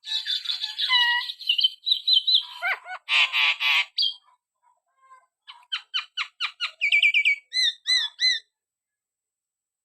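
Javan myna singing a varied run of whistled, scratchy and rapid clicking notes, ending in a few repeated looping notes before it stops.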